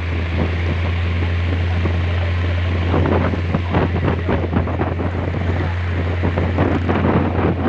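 Small speedboat running fast over the sea: a steady low engine drone under heavy wind noise on the microphone. From about three seconds in, rapid slapping and splashing of the hull on the water joins it.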